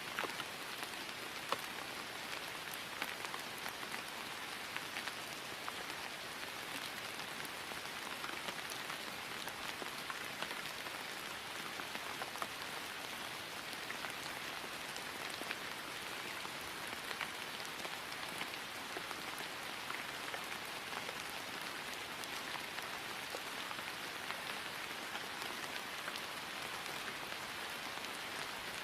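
Steady rain falling on grass: an even hiss with many fine, scattered drop ticks.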